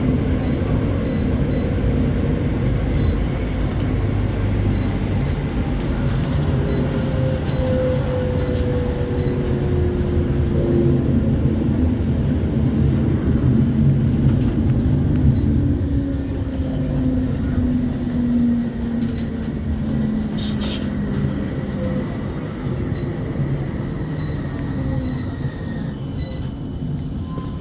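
Interior running noise of a CAF Urbos 3 tram on the move: a steady rumble of wheels and running gear, with a traction-motor whine that glides down in pitch as the tram slows. The rumble eases off toward the end.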